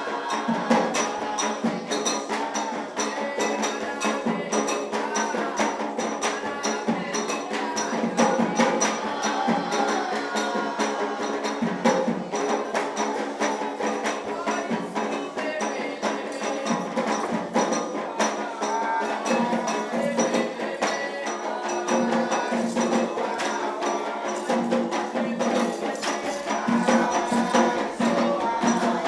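Afro-Brazilian ritual music: voices singing over fast percussion of drums and a bell or wood-block-like instrument, in a steady driving rhythm.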